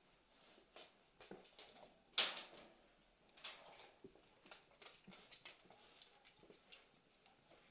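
Campfire crackling softly, with irregular small snaps and pops of burning wood and one sharper pop about two seconds in.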